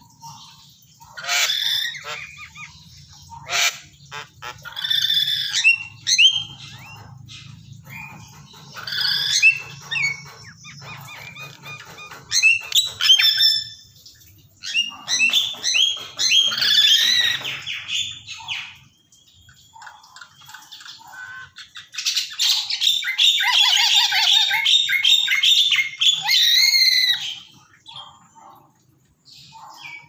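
Javan mynas and a black-capped lory calling in loud bursts of squawks, whistles and chatter, separated by short pauses. The longest unbroken run of calls comes near the end.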